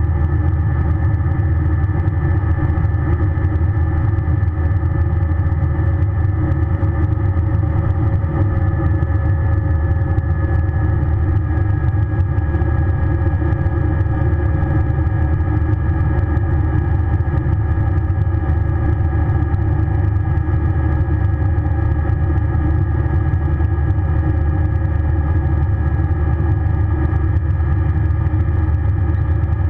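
Airbus A320 heard from inside the cabin: a steady low rumble with several steady whining tones, one dipping slightly in pitch about a third of the way through, as the aircraft sits or taxis at low power.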